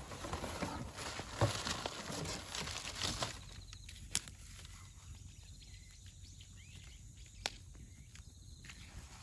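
Wood bonfire of dry firewood crackling: dense crackling and rustling for the first three seconds, then sparser, with single sharp pops about four and seven and a half seconds in.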